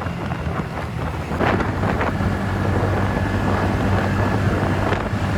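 TVS Ntorq 125 scooter's single-cylinder engine running steadily while riding along, with wind rushing over the microphone. Two short knocks come about a second and a half and two seconds in.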